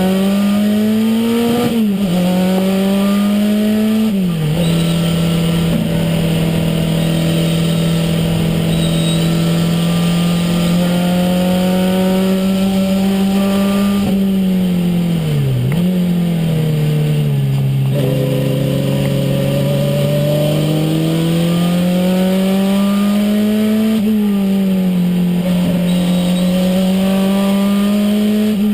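Renault 5 Turbo's turbocharged four-cylinder engine heard from inside the car on track. It climbs in pitch under acceleration and drops sharply at gear changes about 2 and 4 seconds in. It then holds a steady speed, dips and picks back up near the middle, and climbs again later.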